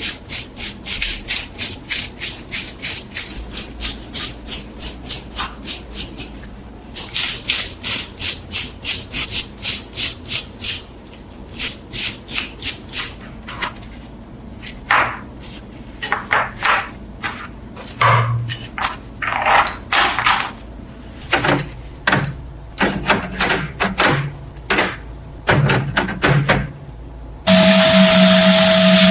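Hand abrading of metal: a file or sandpaper rubbed back and forth in quick, even strokes, about three a second, then slower and more irregular strokes. Near the end an electric power tool switches on and runs steadily with a loud hum.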